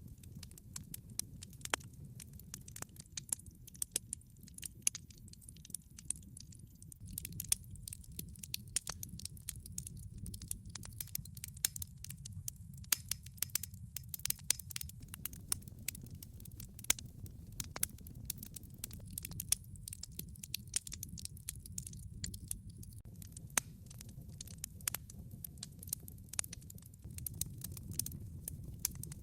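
Wood log fire burning, crackling and popping in quick, irregular snaps over a steady low rumble of the flames.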